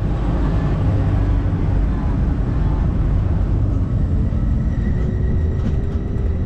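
A moving train making a steady low rumble, with a faint whine coming in near the end.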